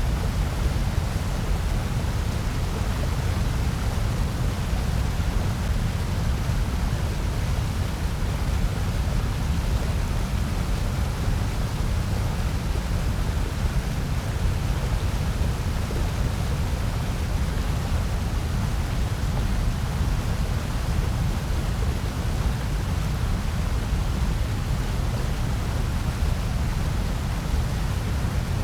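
Steady generated white noise: an even, unchanging hiss with a heavier low rumble beneath it.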